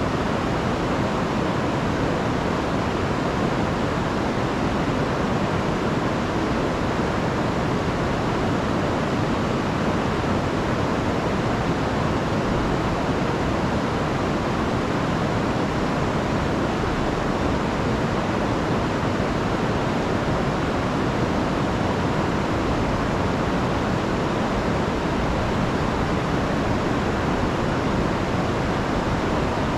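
Rain-swollen river and waterfall rushing: a steady, dense roar of water with no breaks.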